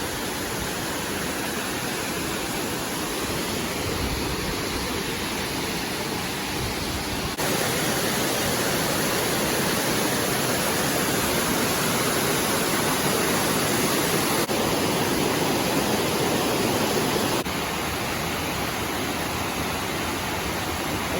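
Steady rush of a large waterfall cascading down rock, with a slight jump in level about a third of the way in and a drop back about four-fifths of the way through.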